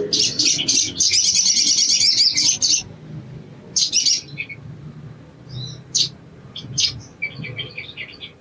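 Sogon (brown-throated sunbird) singing: a loud, fast, high chattering trill for about three seconds, then a short burst a second later and scattered short chirps.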